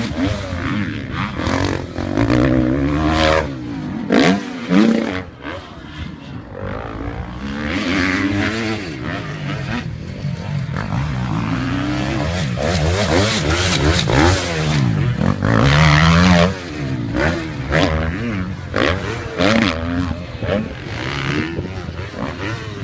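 Motocross dirt bike engines revving hard, their pitch rising and falling again and again as the throttle is opened and shut, with sudden changes from one bike to another.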